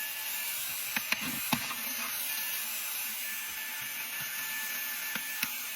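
Compact handheld cordless car vacuum running steadily with a high whirring hiss, with a few light clicks and taps as its small nozzle head knocks against the surfaces being cleaned, about a second in and again near the end.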